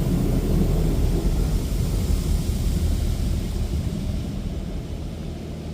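High-pressure rinse jets of a PDQ Laserwash 360 touchless car wash spraying over the car, heard from inside the cabin as a loud, steady rushing rumble that fades away near the end as the rinse pass finishes.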